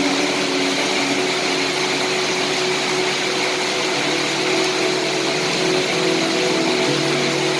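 Steady rain, an even hiss with no let-up, with soft held music notes underneath that shift pitch a few times.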